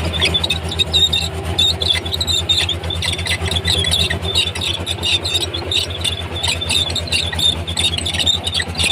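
Komatsu D31P crawler bulldozer's diesel engine running steadily with a pulsing low note, and repeated short high squeals from the moving steel tracks.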